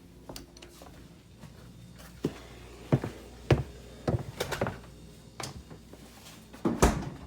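A series of knocks and thunks, about seven in all, as grocery packages are handled and set down, with the loudest thunk near the end.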